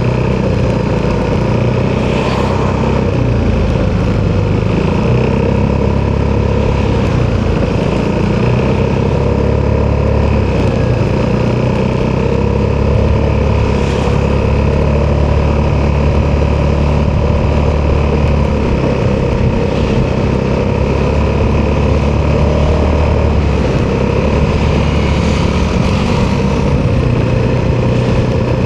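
Italjet Dragster 200 Malossi Edition's single-cylinder four-stroke DOHC engine running through an Akrapovic exhaust while riding. The engine note is steady and loud, and its pitch rises and falls a few times as speed changes.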